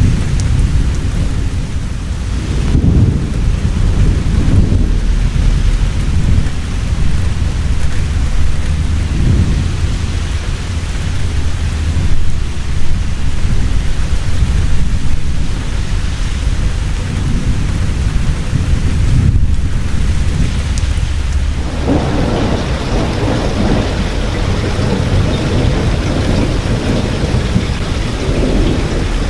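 Heavy rain falling steadily with rolling thunder rumbling underneath, the thunder swelling into a longer, stronger roll in the last third.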